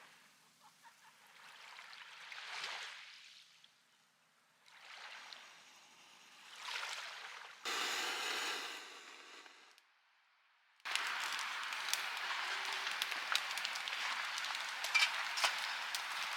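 Sea waves washing onto a beach, each surge swelling and fading over two or three seconds, in several short clips with abrupt cuts between them. After a brief dropout, a steady hiss with many scattered crackles and clicks.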